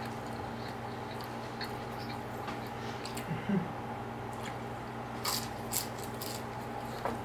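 Faint wet chewing of a mouthful of chicken nuggets, with a few small clicks, over a steady electrical hum.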